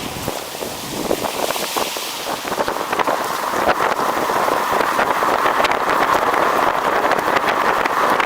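Wind rushing over the microphone while riding, with tyre noise over snowy, slushy road and frequent short crackles; the noise builds after about three seconds.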